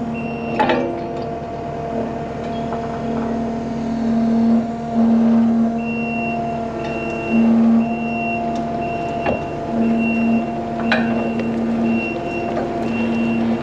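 A vehicle engine running with a steady hum that swells now and then; from about six seconds in, a reversing alarm beeps steadily, about twice a second.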